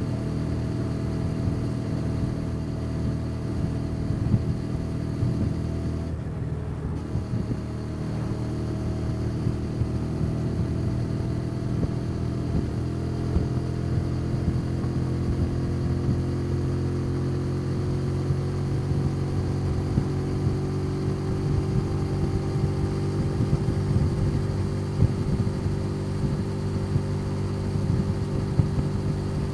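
Motorcycle engine running steadily under way, with a brief dip about six seconds in; after that its pitch climbs slowly as it gathers speed.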